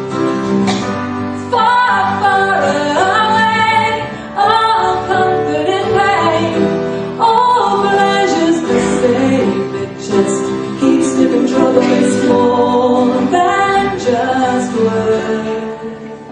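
Live pop ballad outro: a woman singing wordless gliding vocal runs over piano chords, the music dying away near the end.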